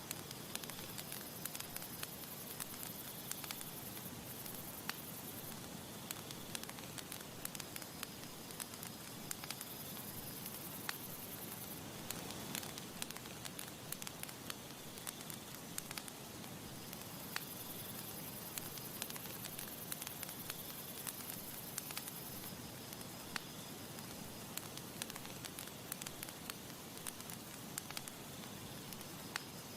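Campfire crackling, with frequent sharp, irregular pops over a steady hiss.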